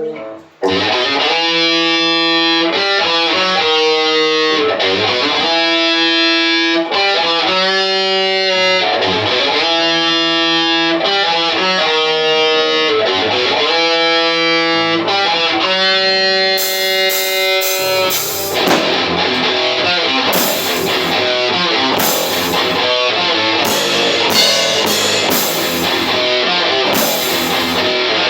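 An experimental metal band rehearsing. Electric guitar plays slow, held chords that change every second or two, then the drums come in with repeated cymbal crashes about two-thirds of the way through.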